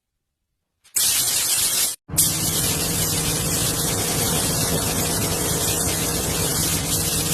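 Loud, steady spraying hiss with a low hum underneath. It starts about a second in, breaks off for an instant near two seconds, then runs on evenly.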